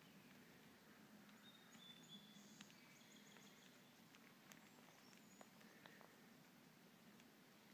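Near silence: quiet woodland ambience with faint, high bird chirps scattered through the middle and a few soft ticks.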